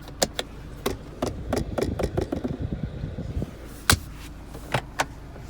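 Central locking of an MG6 being worked: a series of clicks and clunks from the switch and door lock actuators, with the sharpest clunks about four and five seconds in.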